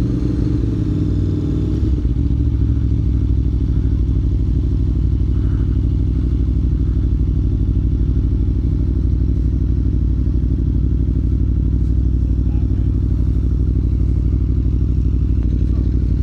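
Aprilia Tuono V4 Factory's V4 engine running steadily at low revs through its exhaust with the baffle removed, a deep, even, pulsing note with no revving.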